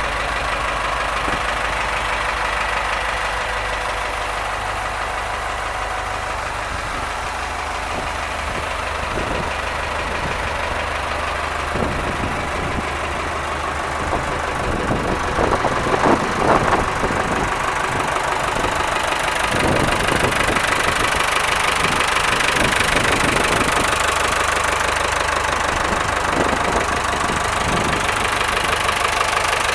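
Ford 5610 tractor's diesel engine running steadily at idle, with a few short knocks near the middle and a little louder over the last third.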